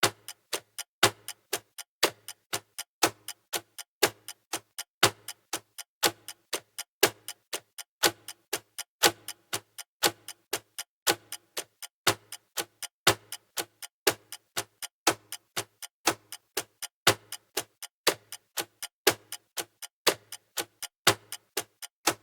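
Clock-style ticking from a countdown timer: sharp ticks several times a second in an even repeating pattern, with a louder tick every two seconds.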